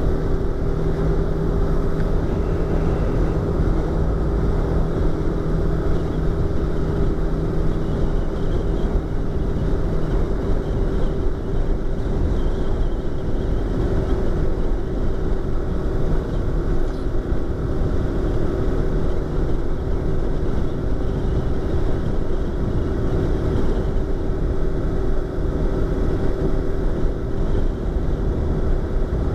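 Yamaha YZF-R25's parallel-twin engine running at a steady speed, heard from inside the rider's helmet over low wind rumble. A lower second note drops away about ten seconds in.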